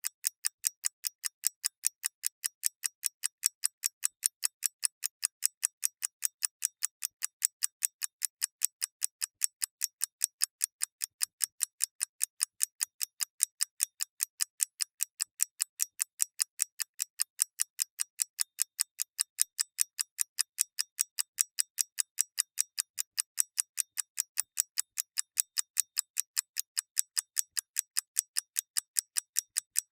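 Mechanical clock ticking: a fast, even run of sharp, bright clicks, several a second, at a steady level.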